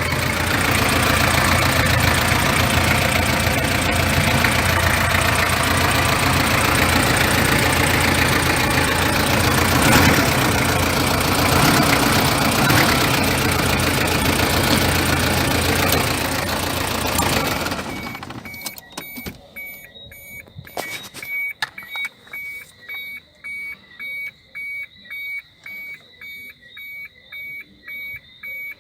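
A Toyota 1KZ-TE four-cylinder turbo-diesel idles steadily, then shuts off abruptly about two-thirds of the way through. After that, an electronic beep repeats at an even pace, about one and a half times a second.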